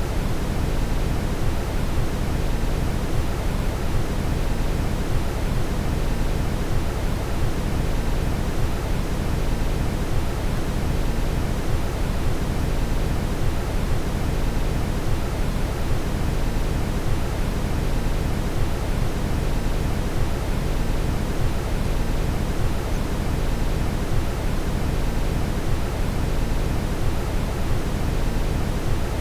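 Steady brown noise: an even, unbroken rushing hiss weighted heavily toward the bass, with no change in level.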